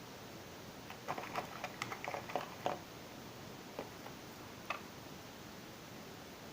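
Small handling noises: a quick run of clicks and rustles about a second in, then two single clicks, over a steady background hiss.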